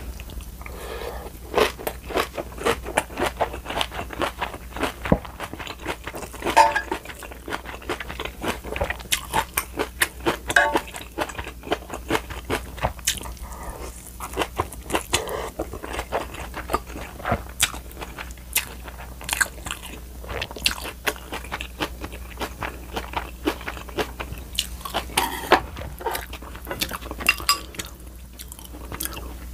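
Close-miked chewing and crunching of napa cabbage kimchi and rolled omelette, many short crisp bites and mouth clicks in a steady run.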